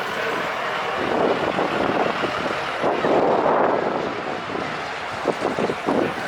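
Vehicle noise with wind on the microphone, swelling about a second in and easing off after about four seconds.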